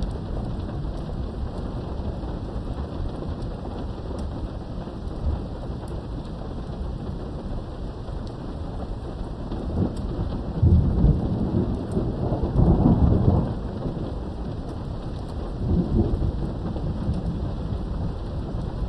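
Steady rain falling, with thunder rumbling in low rolls: a long roll from about halfway in lasting some three seconds, and a shorter one near the end.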